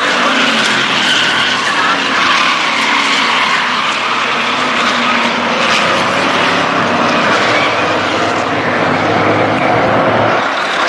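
A pack of stock-car racing trucks running at speed on a short oval, their engines loud and continuous, with overlapping engine notes rising and falling as trucks go by.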